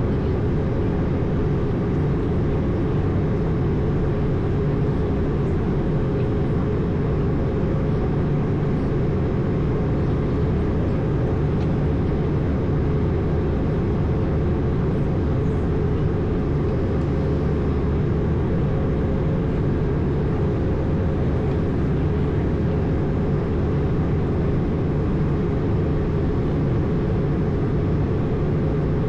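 Steady in-flight drone heard on board an Airbus A220, from its Pratt & Whitney PW1500G geared turbofan engines and the airflow over the airframe. It is an even, low rumbling noise with a faint steady hum, and it does not change.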